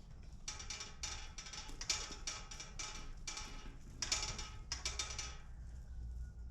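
Chickens pecking at a hard surface: a dense run of rapid, irregular taps and clicks that thins out near the end.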